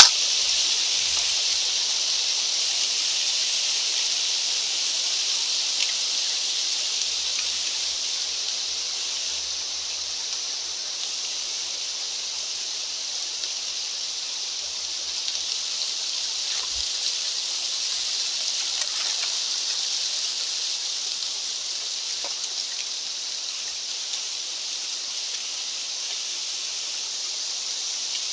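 Mountain wind blowing steadily as an even high hiss, easing a little in strength, with no gusty buffeting on the microphone.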